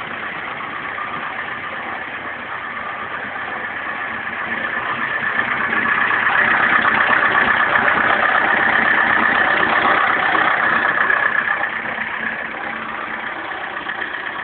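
Steyr 980 tractor's diesel engine running at idle, after a cold start. It grows louder about four seconds in, holds for several seconds, then drops back to its earlier level near the end.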